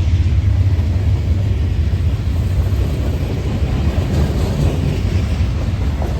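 Freight train rolling past, a steady low rumble that slowly eases off.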